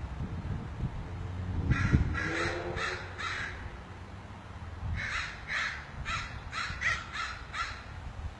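Crows cawing: a run of four harsh caws, then after a short pause a quicker run of about eight. A low wind rumble on the microphone sits under the first two seconds.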